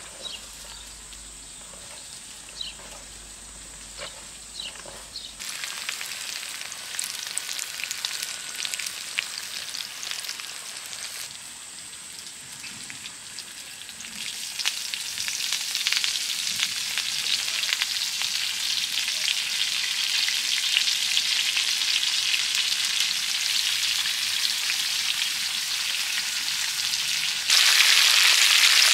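Food sizzling in a pan over a fire, heard in a few edited stretches that cut in sharply. The sizzle grows louder from about halfway through and louder again near the end.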